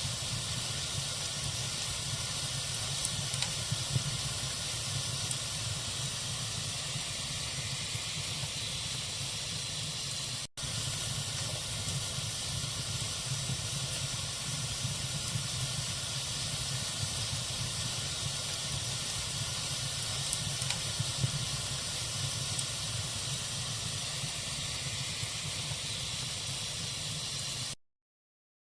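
Wood fire burning in a fireplace: a steady hiss and low rumble from the flames with a few faint crackles. The sound drops out for a moment about ten seconds in and cuts to silence shortly before the end.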